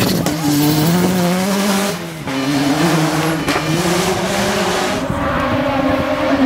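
Race car engine at high revs, its pitch rising and falling, with a brief dip about two seconds in, and tyres squealing.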